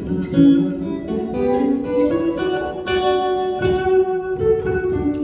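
Live band playing an instrumental break, led by a guitar picking a quick run of notes.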